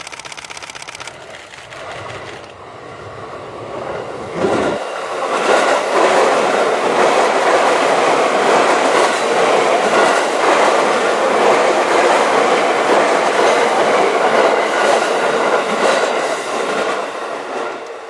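A train passing: a dense rumbling noise grows louder over the first few seconds, stays loud for about ten seconds, then eases off near the end.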